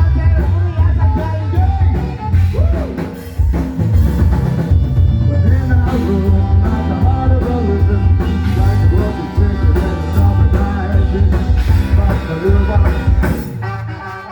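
A live rock band playing: loud drums and bass under a singing voice.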